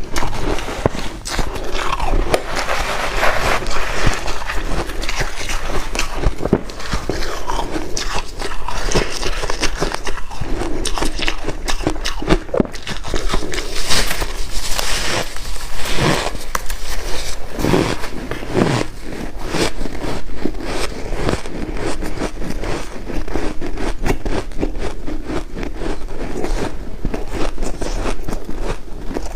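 Close, loud chewing and crunching of white ice, a dense run of crackling crunches with scraping sounds mixed in.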